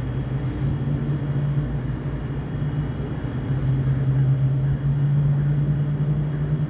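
Diesel locomotive of a passing train running with a steady low drone over rumbling noise, growing slightly louder about four seconds in.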